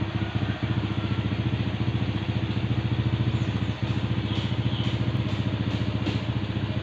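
An engine idling steadily with a rapid, even pulse. A few light clicks come in about four to six seconds in.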